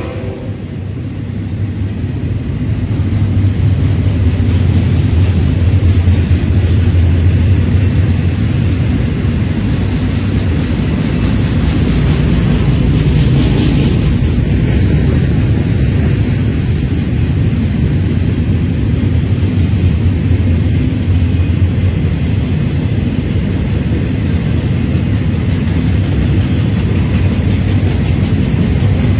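Florida East Coast Railway intermodal freight train's double-stack container cars rolling past at close range: a loud, steady rumble of wheels on rails that swells over the first few seconds.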